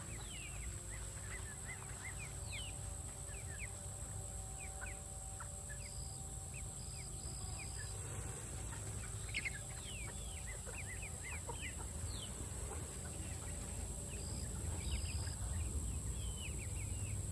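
Mixed flock of chickens, young birds and laying hens, calling while being fed. There are many short, high cheeps and clucks scattered throughout, over a steady low rumble.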